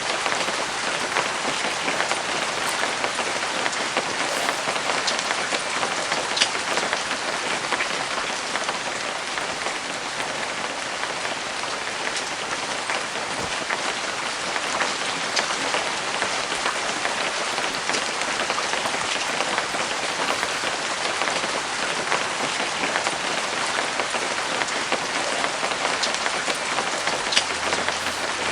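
Steady rain falling on a canvas cover: an even hiss dotted with occasional louder, sharp drop hits.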